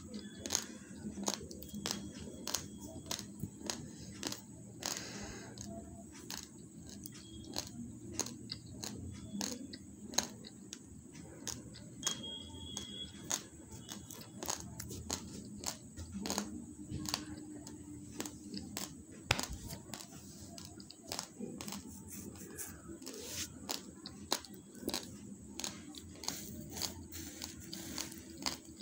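Raw basmati rice grains being crunched between the teeth: sharp, irregular crunches and crackles, about one or two a second.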